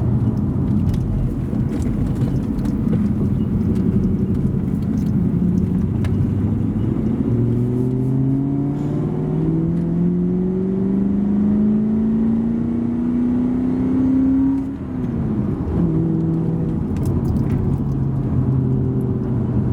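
Ford Falcon XR8's Boss 260 5.4-litre V8 running. It holds a steady low note, then its revs climb smoothly for about seven seconds, drop away quickly, and settle back to the steady low note.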